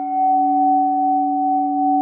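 A sound-healing metal bell instrument ringing on after being struck: a steady low tone with a higher overtone above it, its upper overtones dying away.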